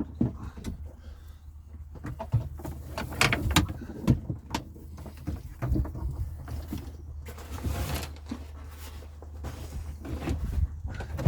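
Scattered knocks and clicks of gear being handled and moved about, with a short rustle about eight seconds in, over a steady low hum.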